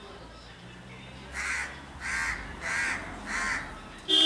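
A bird giving four harsh calls in quick succession, about two every second.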